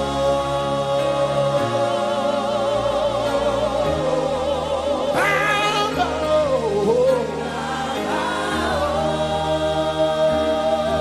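Live gospel worship music: many voices holding long sung notes with vibrato over sustained band chords. About five seconds in, a lead line leaps high and slides back down.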